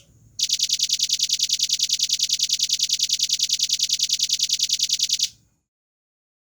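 Velvet-fronted nuthatch giving a fast, tightly spaced trill: an even run of about ten sharp, high notes a second, held for about five seconds and then stopping abruptly.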